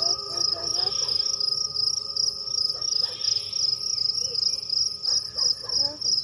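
A cricket chirping steadily, a high pulsing trill of about six pulses a second.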